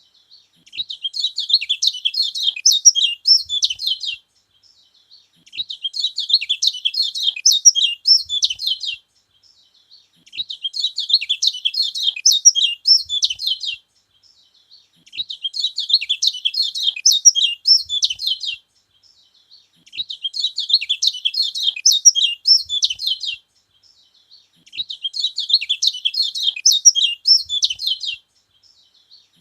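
Kecial kuning (yellow white-eye) singing: a quick, high twittering phrase about three seconds long, repeated about every five seconds with short pauses between, six phrases in all.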